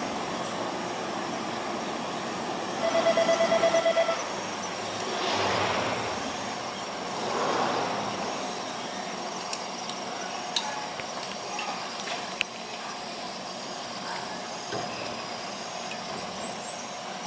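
Eizan Railway train sounds. About three seconds in comes a loud, pulsing electronic buzzer, about a second long, followed by two soft swells of hiss and a few light clicks.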